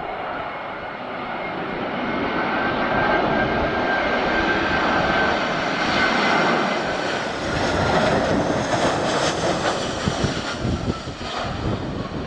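Jet engines of an Airbus A319-111 (CFM56-5B turbofans) running as the airliner passes close by. The roar swells over the first few seconds and holds loud with a fan whine that sags slightly in pitch late on. Wind buffets the microphone near the end.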